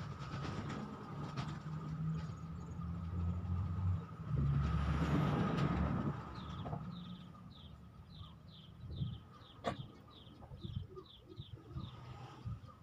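A low rumble through the first half, loudest from about four to six seconds in. A bird then calls an even run of short, high, falling notes, about three a second, for some five seconds.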